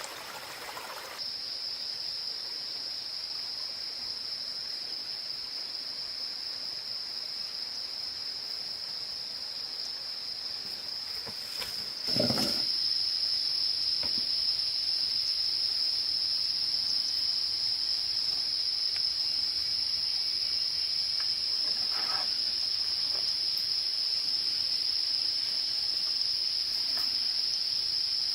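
Insects trilling steadily at one high pitch, stepping up in loudness about a second in and again about twelve seconds in, with a brief soft thump at that second step.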